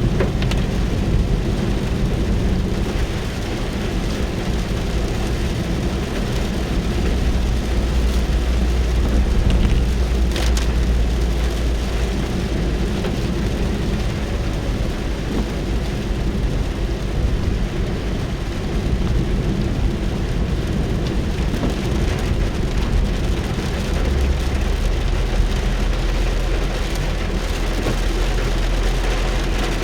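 Rain falling on a car, heard from inside the cabin as a steady hiss over a low rumble.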